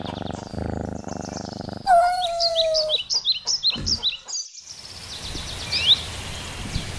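Small birds chirping and singing throughout. In the first two seconds a low buzzing hum sits under them, and about two seconds in a louder steady tone lasts about a second, sinking slightly in pitch.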